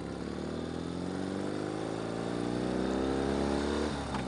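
Ural sidecar motorcycle's flat-twin engine accelerating away, its pitch rising steadily, then dropping near the end as it changes gear, with a sharp click.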